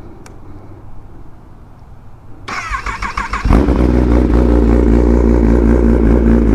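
Kawasaki ZX-10RR inline-four engine cold-started through an M4 slip-on exhaust. The starter whirs for about a second, then the engine fires about three and a half seconds in and settles into a loud, steady idle.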